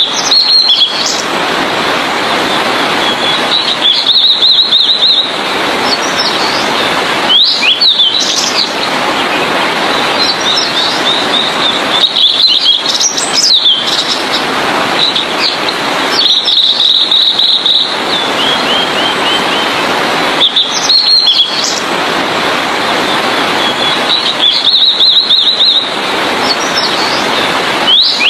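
Blue-and-white flycatcher singing short phrases about every four seconds, each a rapid trill of notes with quick upward and downward sweeping whistles, over a dense steady background hiss.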